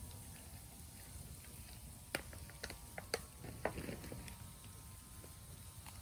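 Bonfire of raw green bamboo crackling, with scattered sharp pops, the loudest about two and three seconds in, and a brief sizzle as moisture boils out of the bamboo.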